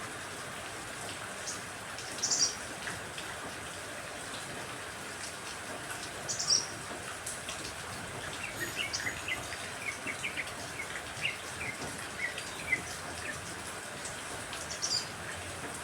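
Steady rain hiss with songbirds calling over it: a few sharp, high chirps about two, six and fifteen seconds in, and a run of quick, lower chirping notes from about eight to thirteen seconds in.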